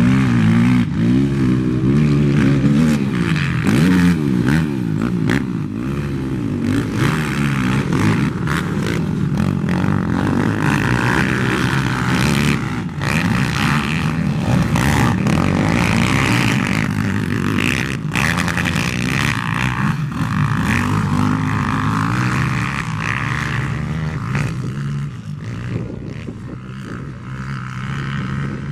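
Motocross bikes racing, several engines revving up and down over one another, dropping back a little near the end.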